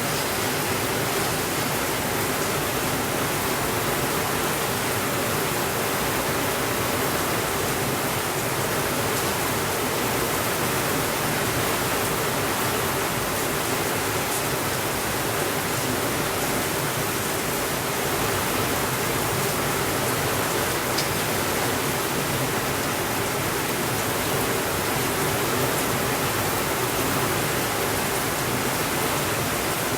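Steady rainfall, an even unbroken hiss with no thunder, with a couple of very faint ticks.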